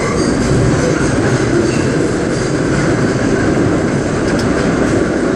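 R32 New York subway car running at speed: a steady, loud rumble of wheels on rail and running gear, heard from the front end of the car.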